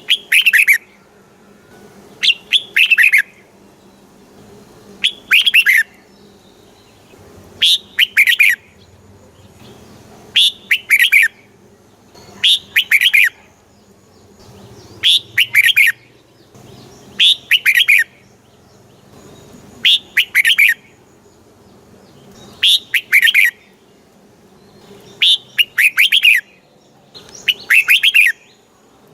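Red-whiskered bulbul singing the same short, clear song phrase over and over, each phrase about a second long and coming about every two and a half seconds.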